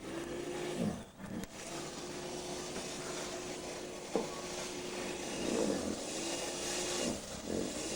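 Small snow blower's engine running steadily, its pitch sagging briefly several times, with one sharp knock about halfway.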